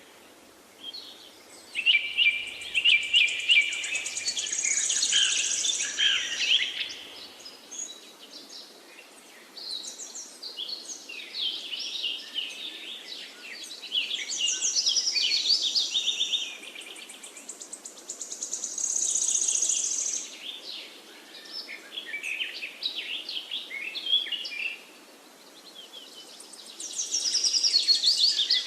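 Several songbirds singing over one another, a busy chorus of quick chirps, trills and warbling phrases that swell and fade in bouts every few seconds.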